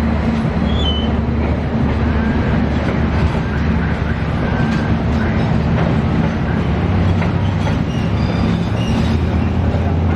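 Train passing close by: a steady low engine drone and rumble of the wheels on the rails, with a few short, high wheel squeals.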